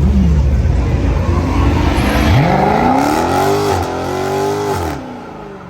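A performance car's engine revving hard as it accelerates away: the pitch climbs steeply, dips once as if for a gear change, climbs again, then falls and the sound fades near the end.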